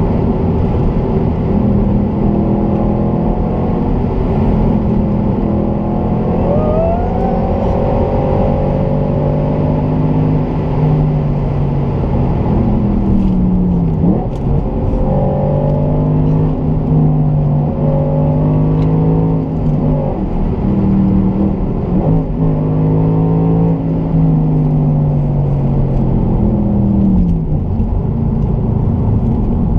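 Audi RS4 B7's 4.2-litre V8, its rear exhausts bypassed, running while the car is driven. The engine note holds steady for stretches and several times dips and climbs again in pitch.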